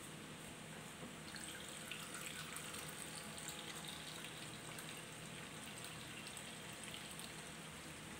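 Fried rice vermicelli sizzling faintly in a wok over a gas flame, with a soft steady crackle that picks up slightly about a second in.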